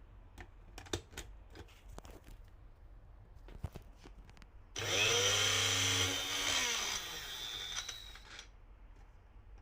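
A few light clicks and taps of handling, then about halfway through a blender motor with a cross blade switches on and runs for about three seconds, its pitch rising as it spins up and falling as it winds down.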